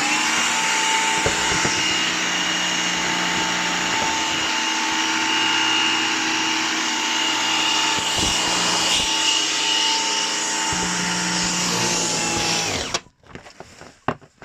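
Gtech AirRam MK2 AR29 cordless upright vacuum cleaner running at full speed: a steady high motor whine over rushing air. About 13 seconds in it is switched off, the whine dropping briefly before cutting out, and a few light clicks follow.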